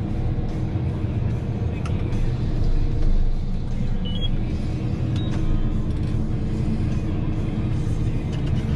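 Heavy forestry machine's engine running steadily, with background music over it.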